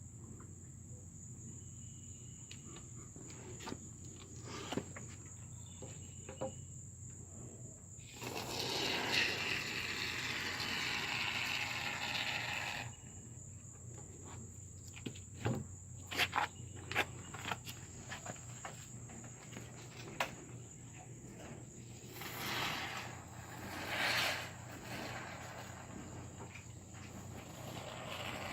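Insects, likely crickets, trilling in a steady high tone throughout. About eight seconds in a loud hiss runs for about five seconds, then come a few sharp clicks and two shorter hisses.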